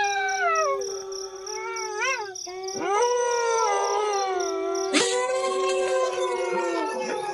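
Several wolves howling together in chorus, their howls overlapping. One holds a steady low note while others slide down from high pitches, and fresh howls join about three and five seconds in.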